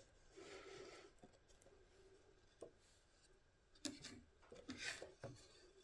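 Near silence, with a few faint handling sounds: a soft rub, a light tick, a short knock about four seconds in and more light rubbing.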